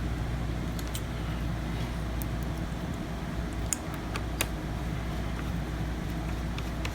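A few small, sharp clicks and taps of screws and a screwdriver being handled, over a steady low hum.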